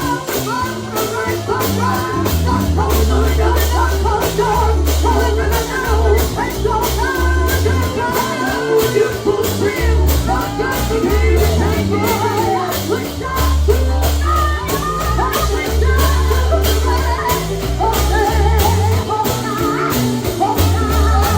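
Live gospel singing with band accompaniment: voices over steady bass notes and a regular percussion beat.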